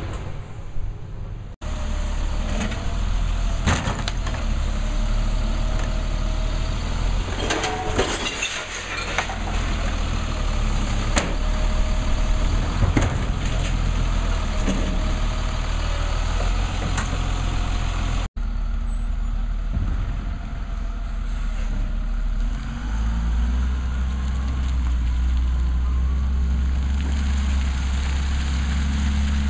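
Labrie Cool Hand garbage truck running, its engine a steady low drone with a wavering mid-pitched whine, and several sharp clanks and knocks a few seconds apart in the first half.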